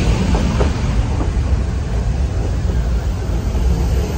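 Nilgiri Mountain Railway toy train running, heard from inside a passenger carriage: a steady low rumble of the moving train, with a few faint clicks in the first second.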